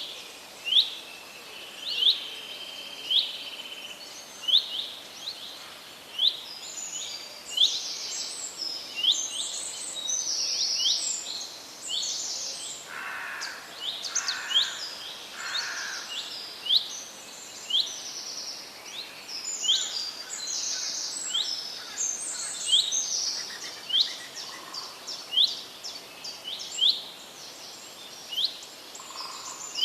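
Birds calling: one bird repeats a short high chirp about once a second, and from about six seconds in others add faster, higher twittering over it.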